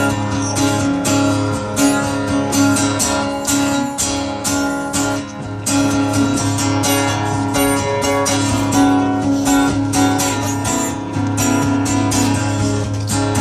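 Acoustic guitar strumming chords in a steady rhythm, an instrumental break in a live country song.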